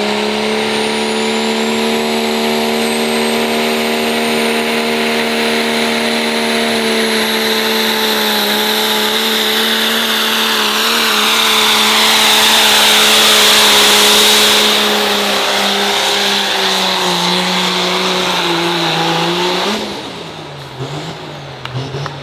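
Diesel pickup truck's engine held at steady high revs under full throttle, pulling a weight-transfer sled, with a high whistle climbing in pitch over the first few seconds. It grows loudest about two thirds of the way through, then the revs sag and the engine backs off sharply near the end as the pull stops.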